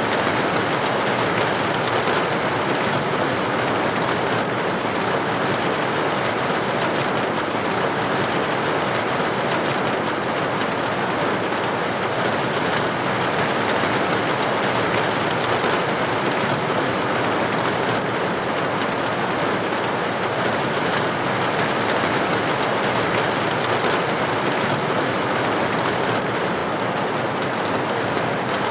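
Steady rain: a dense, even patter of raindrops on a window.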